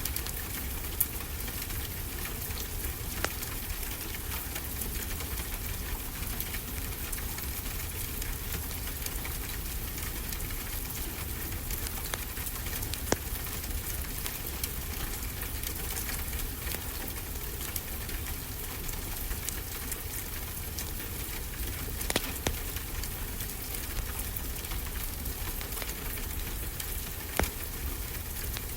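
Wood fire crackling in a fireplace, with a few sharp pops about 1, 3, 13, 22 and 27 seconds in, over a steady hiss and low rumble of ocean surf.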